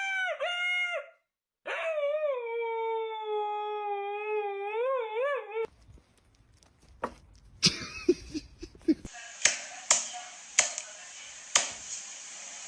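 A dog howling: a short call, then a long held howl of about four seconds that wavers near its end. It is followed by a run of sharp taps over a steady hiss.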